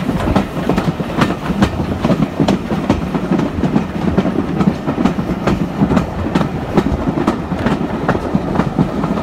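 Heritage railway carriage running along the line, heard from an open carriage window: a steady rumble with the wheels clicking sharply over the rail joints, several clicks a second.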